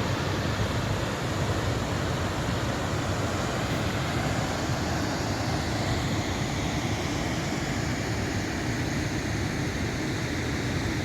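High Force, a waterfall on the River Tees with a drop of over 21 metres, pouring: a steady, unbroken rushing of falling water.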